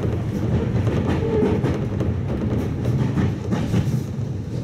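Sotetsu New 7000 series electric commuter train heard from inside the passenger car while running: a steady low rumble of wheels on track, with irregular clicks as the wheels pass over rail joints.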